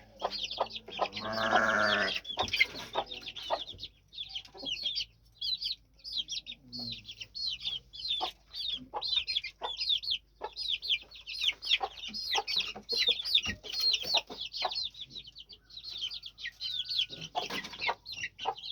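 Aseel chicks peeping: many short, high-pitched, downward-sliding cheeps in quick succession. A longer, lower call of about a second sounds near the start, and scattered light taps run under the peeping.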